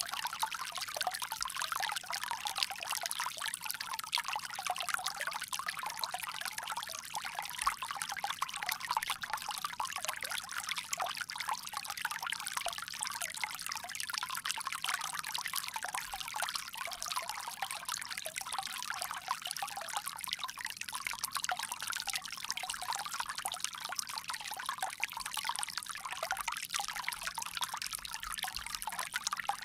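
Water pouring steadily from a bamboo spout, a continuous splashing trickle with no pauses.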